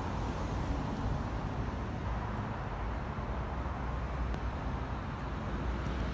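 Steady low hum of an idling engine under outdoor background noise, with no distinct events.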